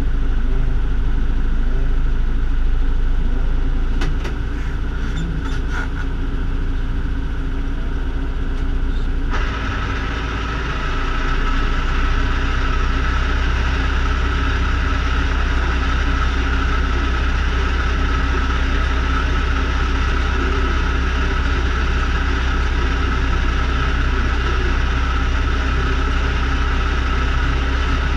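BMW 2002 ti's four-cylinder engine idling steadily, heard from inside the car. About nine seconds in, a harsher, brighter noise joins suddenly and stays to the end.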